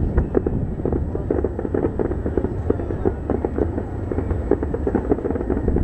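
Aerial fireworks going off in a dense, rapid string of bangs and crackles over a continuous low rumble.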